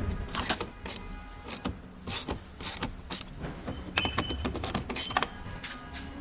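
Irregular clicks and clacks of hand-tool and parts handling while a car's taillight is being taken out, with a few brief metallic rings near the middle.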